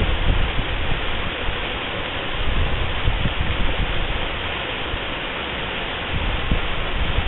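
Waterfall pouring steadily, an even rushing noise, with irregular low buffeting on the microphone.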